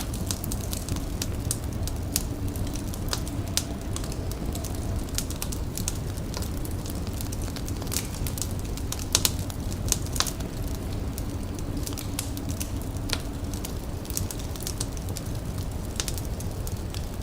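A fire crackling, with irregular sharp pops over a steady low rumble; the loudest pops come about nine and ten seconds in.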